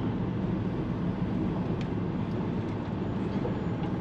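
Car transporter lorry's diesel engine running steadily at low speed, an even low drone with road noise.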